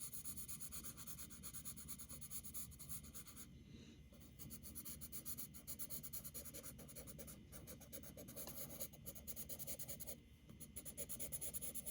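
Medium charcoal pencil rubbing on paper in quick, light back-and-forth shading strokes, fairly faint, with two short letups.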